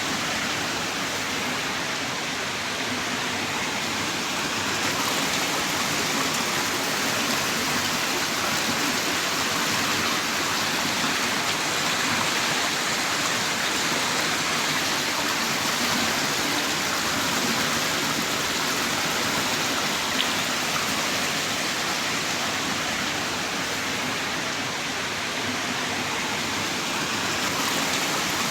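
Heavy rain pouring down in a steady, dense hiss with no breaks.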